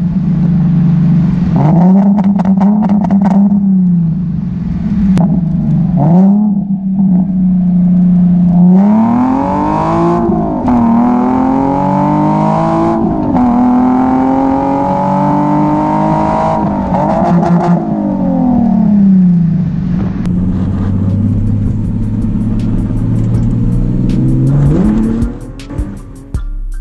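Nissan 370Z Nismo's 3.7-litre V6 with a muffler delete, driving: the engine note climbs under acceleration and drops back at each shift several times, with steadier stretches between. Near the end the engine fades and music with a beat comes in.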